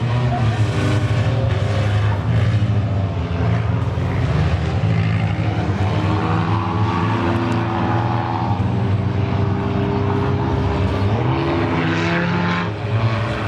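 Several claimer race cars' engines running around the track together, a steady drone with pitches that rise and fall as the cars speed up, ease off and pass.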